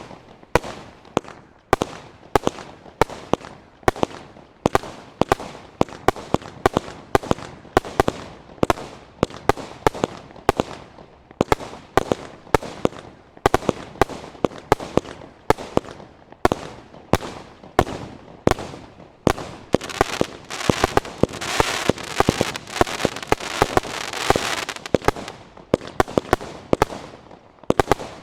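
Fallen Angel firework going off in a rapid, steady series of sharp bangs, about two or three a second. A dense crackling hiss swells over the bangs about two thirds of the way through.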